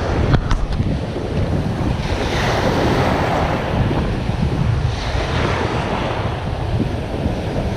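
Surf washing onto the beach, surging twice, with wind buffeting the microphone in a gusty low rumble.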